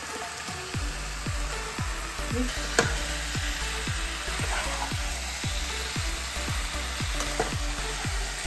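Chicken pieces and masala sizzling as they fry in a kadhai, stirred with a ladle in quick strokes about three a second. There is a sharp knock about three seconds in.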